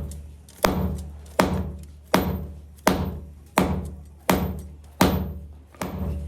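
Hammer blows on a metal workpiece in an even rhythm, about one every 0.7 seconds, each ringing briefly, over a low steady hum.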